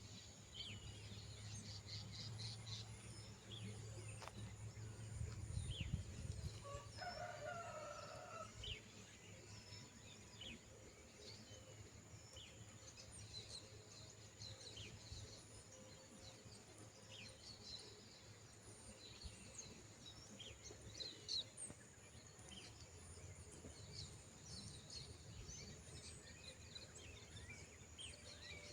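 A rooster crows once, about seven seconds in, with small birds chirping faintly throughout.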